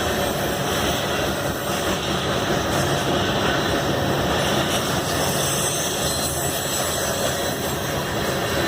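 Passing train making a steady, continuous rumble and rail noise.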